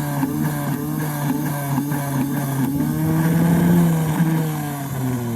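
Rebuilt ship-engine electric starter motor spinning on test, a steady whine that rises slightly in pitch, then begins to fall near the end as it starts to spin down.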